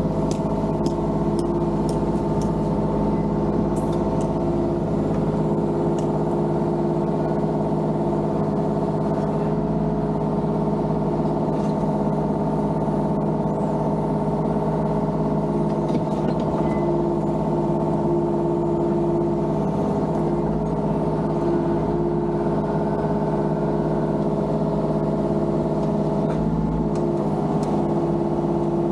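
Mini excavator's diesel engine running steadily at working speed, with a constant hum and occasional light clatter.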